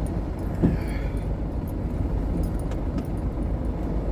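GAZon Next truck's diesel engine running with a steady low rumble, and one short knock about half a second in.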